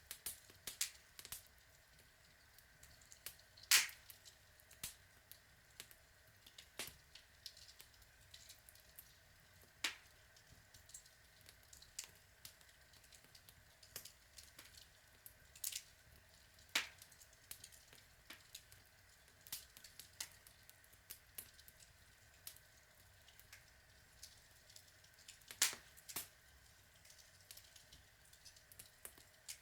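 Outdoor log fire crackling: irregular sharp snaps and pops over a faint steady hiss, with a few louder pops, the loudest about four seconds in and again near the end.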